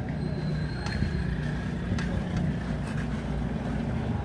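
Motorcycle engine running steadily, with a few sharp clicks over it.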